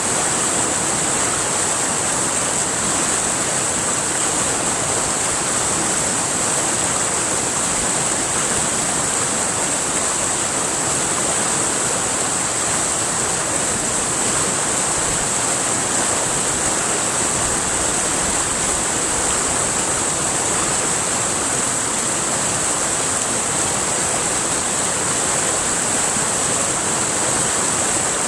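River water rushing steadily over rocks, with a constant high-pitched hiss above the flow.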